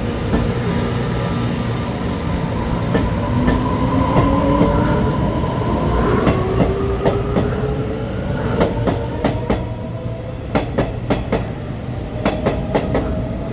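Taiwan Railways train running along the platform track, with a steady rumble and a motor whine that rises slowly in pitch. Rhythmic clickety-clack of wheels over rail joints comes in the second half.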